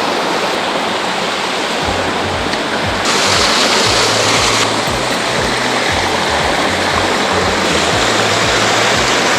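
Rushing mountain stream water, joined about two seconds in by background music with a steady, deep bass beat.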